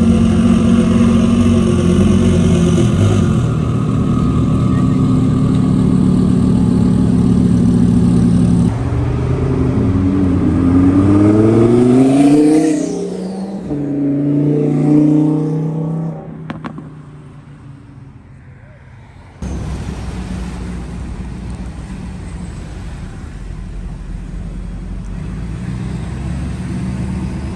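Diesel pickup truck engines: one running steadily, then one accelerating with a rising pitch over a few seconds, then a quieter stretch with a single click, then a steady low engine rumble.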